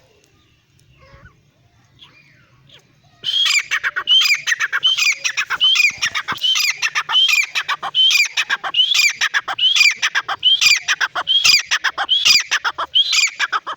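Francolin (teetar) calling loudly, a fast unbroken series of harsh, ringing notes about two a second, starting about three seconds in.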